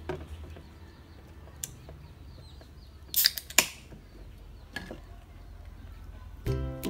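Beer can pull-tab snapped open about three seconds in: a sharp crack and a short fizz of escaping gas. Background music begins near the end.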